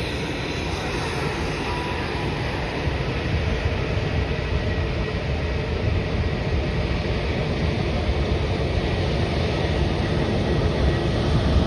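Jet airliner's engines rumbling, growing steadily louder, with a faint high whine that fades after a few seconds.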